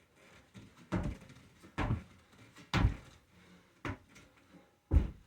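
A series of five dull knocks or thumps, spaced about a second apart.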